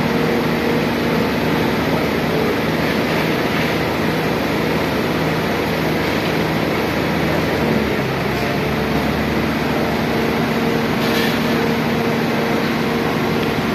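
An engine running steadily under a loud, even rushing noise, with a steady hum that shifts in pitch about eight seconds in.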